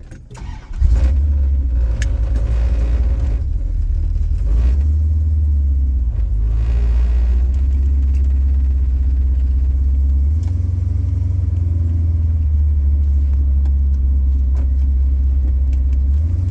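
1969 Chrysler New Yorker's 400 V8 with Dynamax Ultraflow mufflers comes in loudly about a second in and runs with a steady deep exhaust rumble. Its low note shifts a couple of times.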